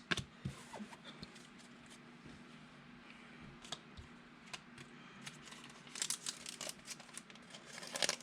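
Faint handling of trading cards and their packaging: soft crinkles and light taps, with short clusters of rustling about six seconds in and again near the end.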